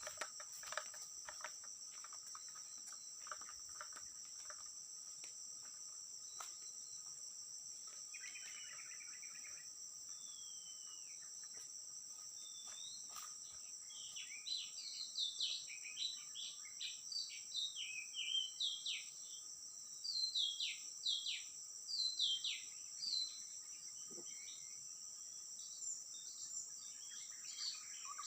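A steady high insect drone, like crickets, with scattered clicks in the first few seconds. From about halfway through, an Oriental magpie-robin sings repeated varied whistled phrases over it.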